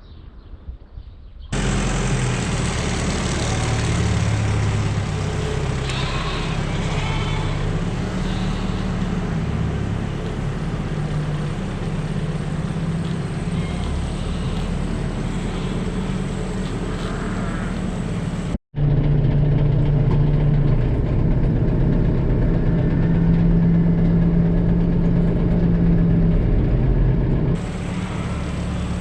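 Tractor engine running steadily, with the sound changing abruptly at edits between clips, once early on, about two-thirds through and again near the end.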